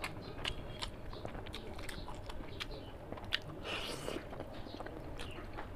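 A person chewing a curry-and-rice meal close to the microphone: wet smacking with irregular sharp mouth clicks and occasional crunches.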